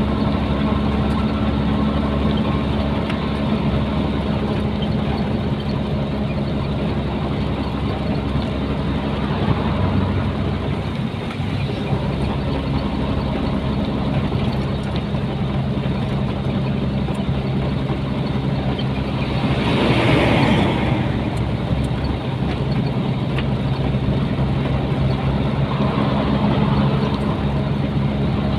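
Nissan Diesel container truck's diesel engine running steadily while driving, its drone shifting pitch once, about 12 seconds in. About two-thirds of the way through, a brief rushing noise swells and fades.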